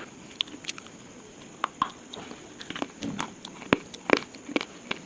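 Slate being crushed and crumbled, giving irregular sharp crunching snaps and crackles, with two louder cracks near the end.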